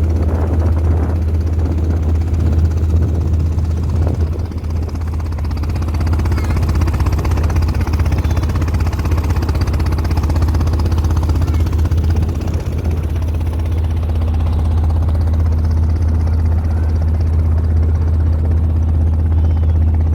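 Motorboat engine running steadily: a loud, low, even drone.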